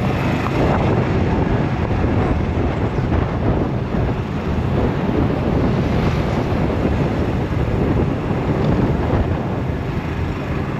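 Wind buffeting the microphone on a moving golf cart, over the cart's steady running and road noise.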